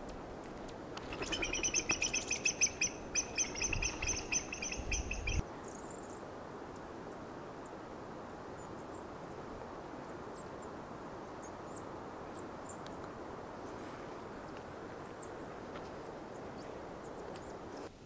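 A bird calling a fast run of short, evenly spaced notes for about four seconds, starting about a second in and cutting off suddenly. Faint high chirps follow over a steady outdoor hiss.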